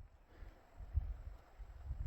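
Wind buffeting the microphone in uneven low gusts, the strongest about a second in.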